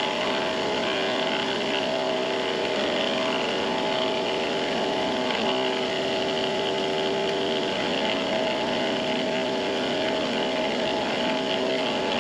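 Benchtop machine-tool motor running steadily, with the whine of a cut on aluminium; the pitch and level do not change.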